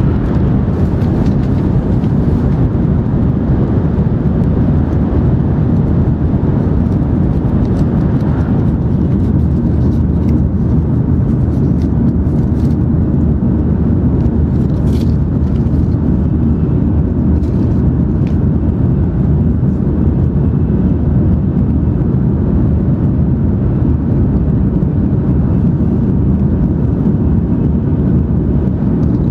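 Steady low rumble of an N700 series Shinkansen running at high speed, heard from inside the passenger cabin, with a few faint ticks in the middle.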